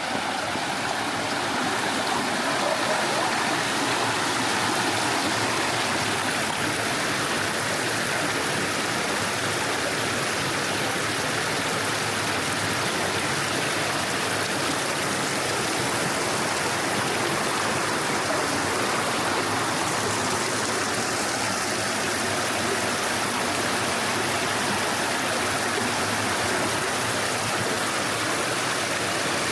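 Steady rushing of a wide stream's flowing water.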